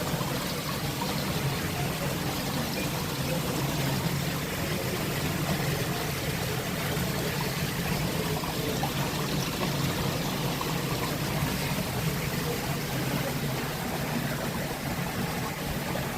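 Steady running or pouring water, with a constant low hum underneath.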